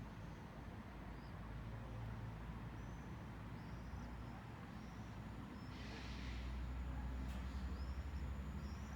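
Low rumble of a pair of coupled Newag Impuls electric multiple units pulling into the station, growing louder over the last few seconds, with a short hiss about six seconds in. Short high chirps recur throughout.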